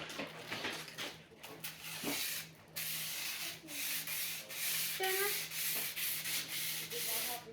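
Sword blade being sharpened: repeated scraping strokes of the blade against the sharpening surface, fainter at first and louder and more regular from about three seconds in.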